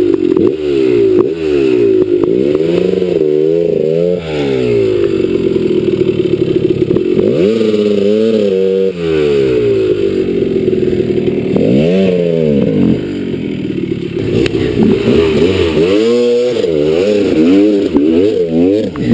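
Dirt bike engine revving up and down over and over as it works up a rocky trail climb, with clatter and scraping.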